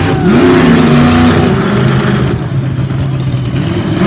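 Monster truck engine revving hard, its pitch climbing shortly after the start and then holding at high revs, over a loud noisy rumble.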